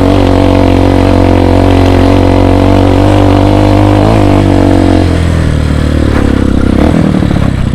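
Motocross dirt bike engine running hard at steady revs while climbing, then dropping to lower, uneven revs about five seconds in.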